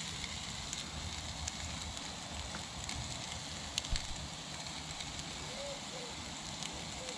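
Beef burgers and onion rings frying on a cast iron griddle over a low gas flame: a steady, fairly quiet sizzle with small scattered crackles.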